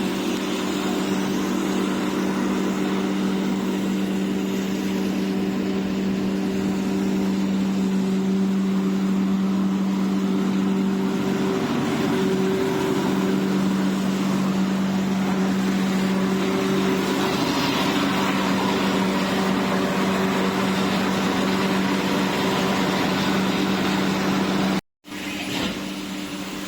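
Egg tray production machinery running with a steady, loud hum and a noisy mechanical wash. The sound cuts out abruptly for a moment near the end.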